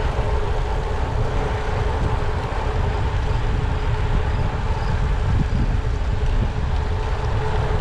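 Wind rushing over the microphone of a bicycle-mounted camera while riding, with road and tyre noise and a faint steady hum under it.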